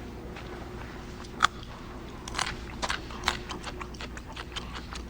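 A person biting and chewing a crunchy raw vegetable: sharp crunches, the loudest about a second and a half in, then a run of smaller crunches from about two seconds on, over a faint steady hum.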